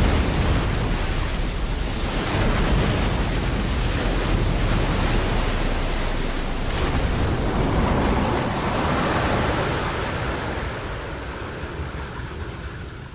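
Airbus A320 ditching on a river: a loud, steady rushing of water and spray as the airliner skids across the surface, swelling again partway through, then dying away near the end.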